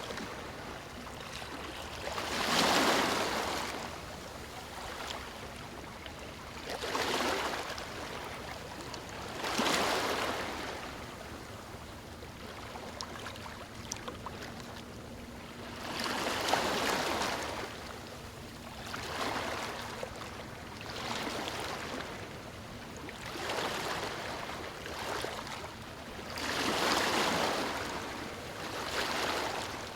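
Small waves breaking and washing over stones on a shore, swelling and falling away every few seconds over a steady background wash.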